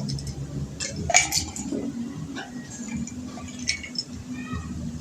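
A drinking glass clinking as it is handled: several sharp taps and clinks, with a steady low hum underneath.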